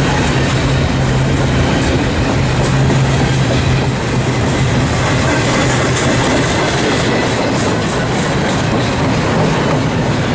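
Train rolling past at close range, steel wheels clicking over rail joints, over a steady low hum that is strongest in the first few seconds and eases later.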